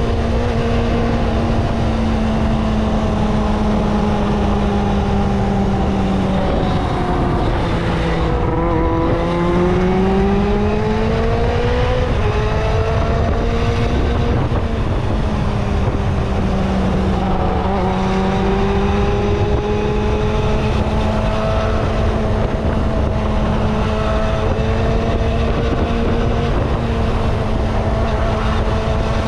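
Kawasaki ZXR250 inline-four engine running at steady high revs under way. A few seconds in the pitch sags as it eases off, then climbs back as it pulls again, and holds steady after that.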